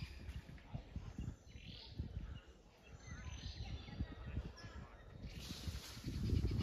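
A few faint bird chirps spread through, over low rumbling noise on the microphone; a steady high hiss comes in about five seconds in.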